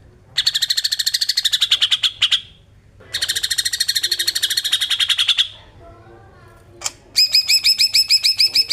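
Cucak ijo (green leafbird) singing besetan: two long runs of very fast, rattling repeated notes, then, after a short click, a slower series of clear whistled notes about five a second.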